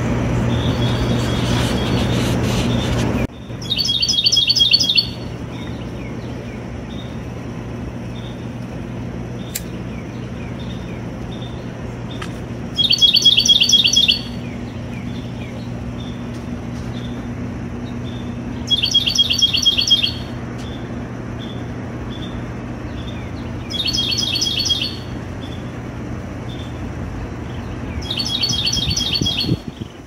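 A songbird sings a short, fast phrase of repeated notes five times, roughly every five seconds, over a steady low hum of distant traffic. For the first three seconds a louder rumble covers everything, then cuts off abruptly.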